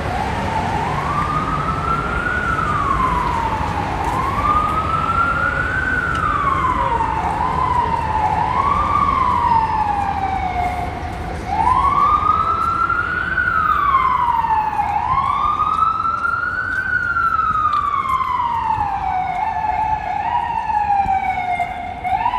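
Emergency vehicle siren wailing in the street, its pitch rising and falling slowly every three to four seconds, with a few quicker short swoops partway through. Low traffic rumble runs underneath.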